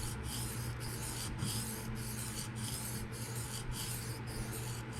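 A PM60 steel knife blade being stroked freehand across a diamond sharpening stone, a rhythmic scraping hiss at about two strokes a second. The passes straighten the apex and push the burr over before deburring.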